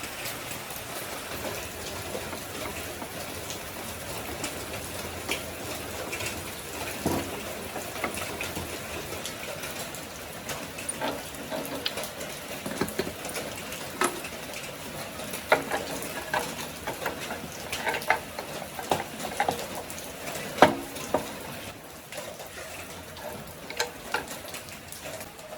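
Water running or splashing, with scattered light clicks and knocks, as of parts being handled, that come more often in the second half.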